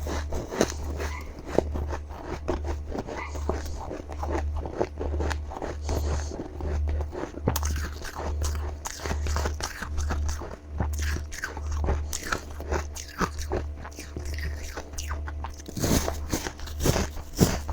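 Close-up bites and chews of powdery freezer frost: a steady run of crisp crunches, with the loudest bites near the end.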